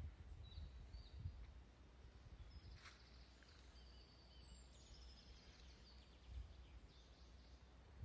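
Faint woodland birdsong: scattered thin, high whistled notes and short trills from small songbirds, over a low rumble on the microphone.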